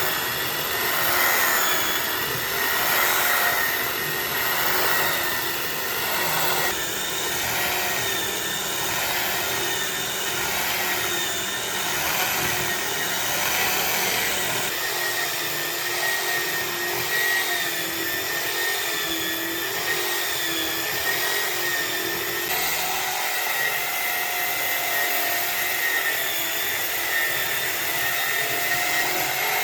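Electric power tool running steadily on wood, a high whine that wavers slightly in pitch over a hiss. It swells and eases every couple of seconds at first, then runs evenly.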